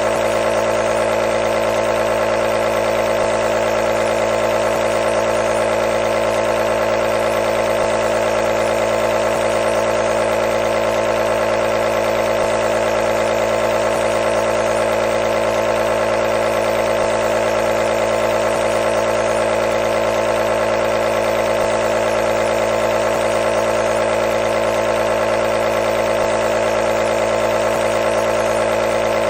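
Nebulizer compressor running continuously: a steady mechanical hum with a strong mid-pitched drone over an even airy hiss, unchanging throughout.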